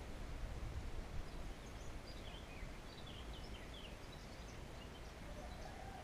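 Faint birdsong: a run of quick, short chirps from about a second and a half in until about four and a half seconds, over a steady low rumble on the microphone.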